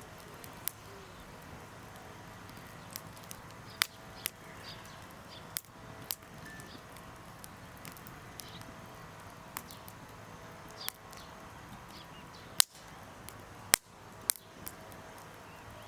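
Wood campfire crackling: irregular sharp pops and snaps over a steady low hiss, with a few louder pops near the end.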